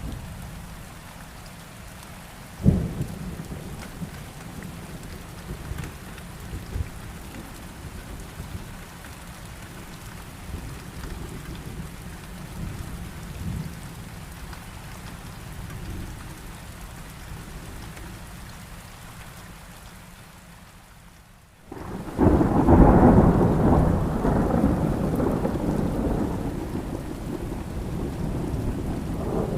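Rain falling steadily with low rumbling thunder, and a sharp clap of thunder about three seconds in. After a brief drop in level, a loud, long roll of thunder begins about 22 seconds in and slowly fades.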